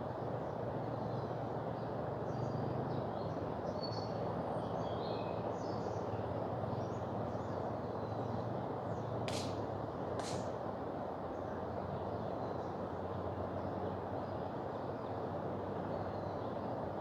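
Steady rush of a mountain river's flowing water, with faint high bird chirps in the first few seconds and two short, sharp snaps about a second apart just past the middle.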